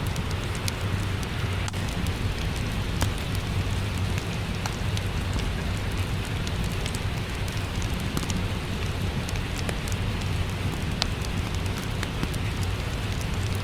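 Steady rain with a low rumble underneath, mixed with a wood fire crackling in scattered sharp pops.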